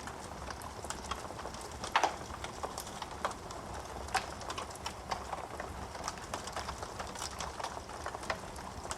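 Wood fire in a fireplace crackling, with irregular sharp pops of burning wood over a soft steady hiss; the loudest pop comes about two seconds in.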